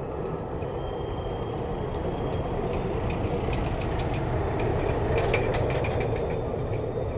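Train running on the track: a steady rumble with a run of sharp clicks in the middle, swelling slightly and easing off again.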